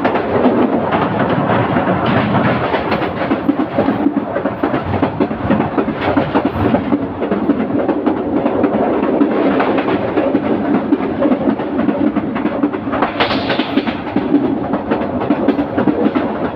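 Train running along the track: a steady rumble and rattle of wheels and carriages, with a brighter rushing swell about thirteen seconds in.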